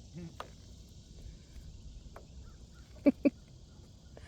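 Two short, sharp knocks in quick succession about three seconds in, over a faint steady outdoor background hiss.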